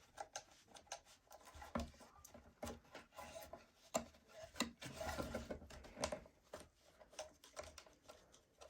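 Scrap wood pieces and a clamp being handled and positioned: scattered light knocks, clicks and rubbing of wood.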